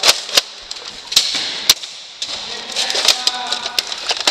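Nerf foam-dart blasters firing, an irregular scatter of sharp clicks and snaps, about a dozen over four seconds.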